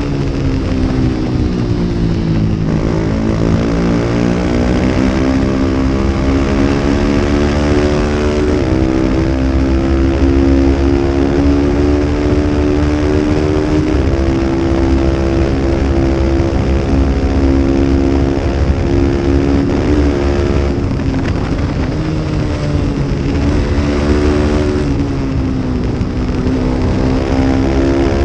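Small-displacement race motorcycle engine of the 250 Superbike class running hard at high revs: the pitch drops near the start as it slows, then climbs in stages with brief steps at the gear changes, dipping twice more later before pulling up again, over a steady rushing noise.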